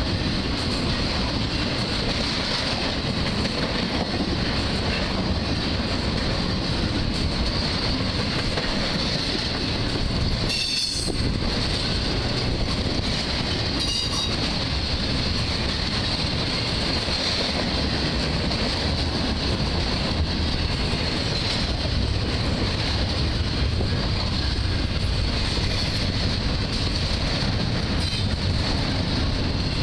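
Norfolk Southern intermodal freight cars rolling steadily past: a continuous rumble and rattle of steel wheels on rail, with a steady high-pitched wheel squeal over it. Two brief clatters come around the middle.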